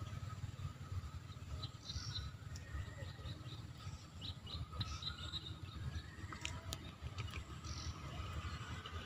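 Small birds chirping in short, high, scattered calls, over a steady low rumble.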